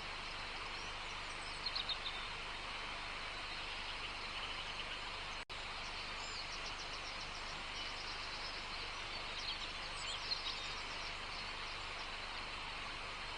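Natural outdoor ambience: a steady hiss with small birds chirping and trilling now and then, in several short bouts. About halfway through the sound drops out for an instant.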